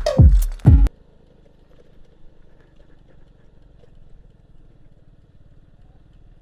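Electronic intro music with deep, falling bass-drum hits cuts off about a second in. After it comes the faint, steady low running of a motorcycle engine.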